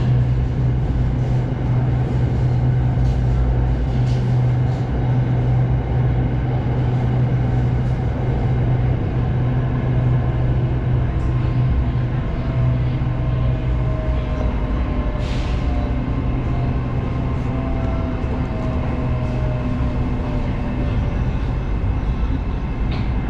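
SRT Red Line electric train running with a steady low hum and rumble. In the middle, a faint whine slowly falls in pitch.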